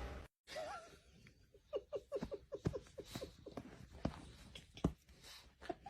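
A small animal squeaking: a quick run of short squeaks about two seconds in, with scattered squeaks and light taps around them.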